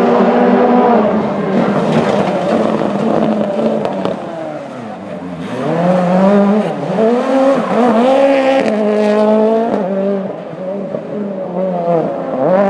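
A racing car's engine at high revs. Its pitch drops about four seconds in, then climbs back in several quick steps, like gear changes, and rises and falls again in short throttle blips near the end.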